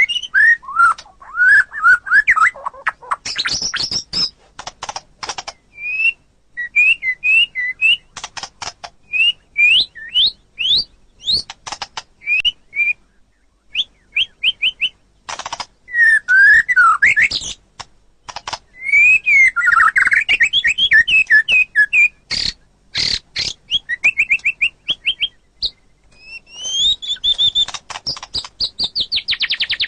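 White-rumped shama (murai batu) singing: phrases of clear, loud whistles that slide up and down, mixed with quick repeated notes and sharp clicking chatter, with brief pauses between phrases. Near the end the song runs into a fast series of rapid repeated notes.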